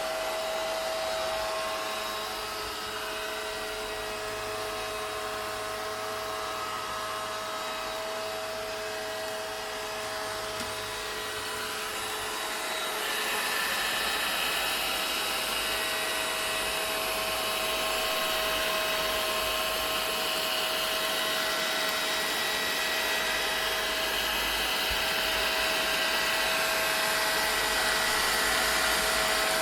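Vacuum cleaner running continuously: a steady motor whine over a rushing airflow hiss. About twelve seconds in, the hiss turns brighter and a little louder, then holds steady.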